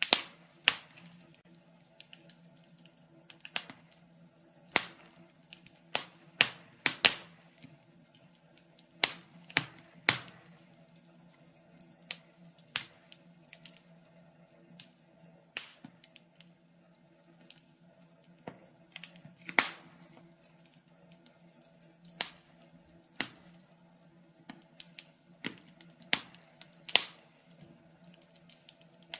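Fireplace wood fire crackling: irregular sharp pops and snaps, a few a second at times, over a faint steady hum.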